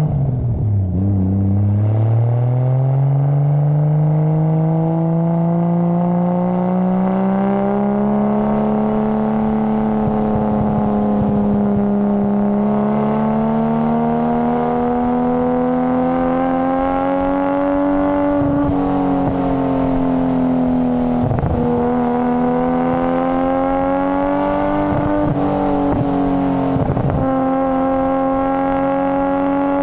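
Nissan Skyline GT-R (BCNR33) RB26DETT twin-turbo straight-six engine and exhaust running. The note drops about a second in, climbs slowly over the next several seconds, then holds steady with a few brief dips in pitch in the second half.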